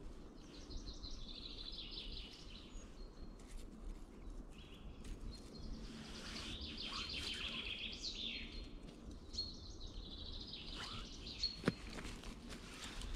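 A small songbird sings a trilled phrase three times, each a couple of seconds long, the middle one ending in a falling sweep. A single sharp snap comes near the end.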